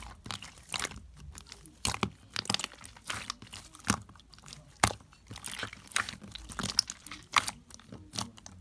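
Hands pressing and squishing sherbet-textured slime, making irregular crunchy crackles and pops.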